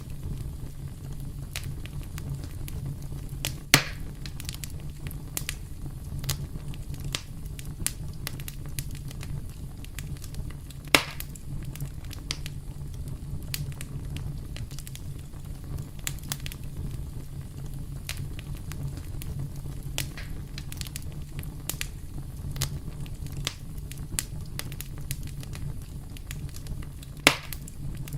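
Campfire burning: wood crackling with many small scattered snaps and three louder pops, over a steady low rumble.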